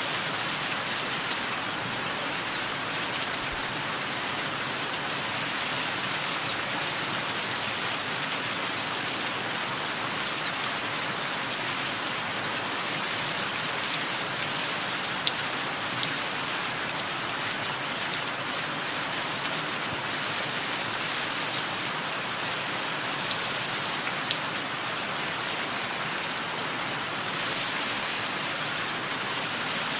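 Steady rain falling, with a small bird calling over it: short, high, falling chirps, often in pairs, every second or two.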